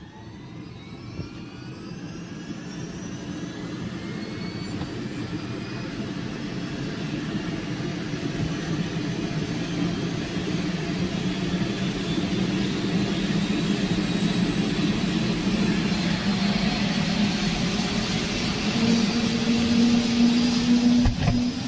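Helicopter starting up: a rising whine as the engine spools up, then the engine and rotor noise building and growing steadily louder as the rotor comes up to speed.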